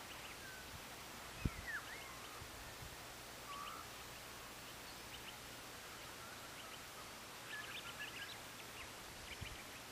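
Faint open-air background with scattered bird calls: a couple of short whistled glides about a second and a half in, and clusters of quick chirps around seven to nine seconds in. A brief low thump sounds about a second and a half in.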